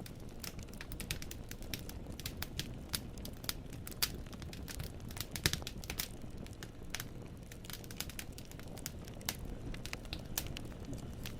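Wood fire burning in a fireplace: irregular sharp crackles and pops from the burning logs, several a second, over a low steady rumble of the flames.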